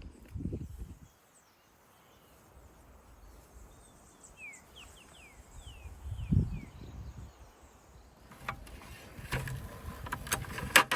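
A bird calling outdoors in a run of short, falling whistles, over low wind rumble on the microphone. There is a low thump about six seconds in, and rustling with a few sharp clicks near the end.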